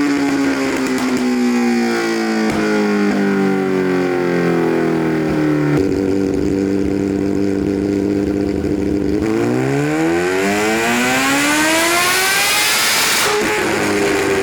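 Kawasaki H2's supercharged inline-four engine on a dyno. Its revs slowly wind down, hold steady for a few seconds, then climb in a long rising pull of about four seconds. Near the end the engine drops abruptly in pitch.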